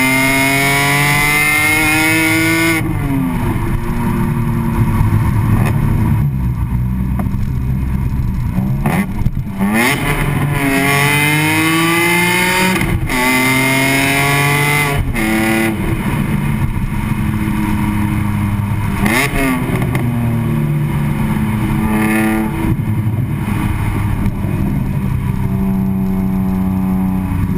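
BMW E46 M3's S54 straight-six through an Agency Power aftermarket muffler, accelerating with the exhaust note rising in pitch and dropping sharply at each upshift, several times over, then holding a steadier pitch near the end.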